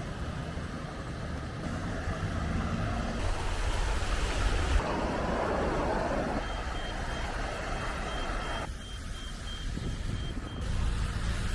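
Rain and traffic noise on a wet street, with a vehicle engine running low underneath. Past the middle, a vehicle's reversing alarm beeps about twice a second for about four seconds.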